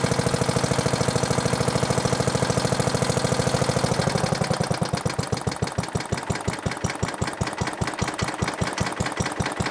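1958 Briggs & Stratton 19D single-cylinder, air-cooled cast-iron engine running just after a cold start. Its fast, even firing slows to a low idle about halfway through, with each firing stroke then standing out as a separate pop.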